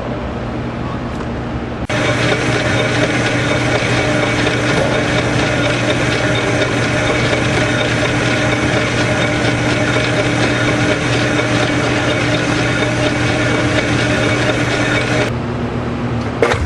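A motor-driven shop machine running steadily, a hum over a broad hiss. It gets suddenly louder about two seconds in and drops back shortly before the end.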